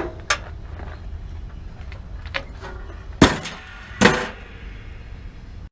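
Metal being worked on a truck cab: a few light clinks, then two loud bangs about a second apart, each ringing briefly.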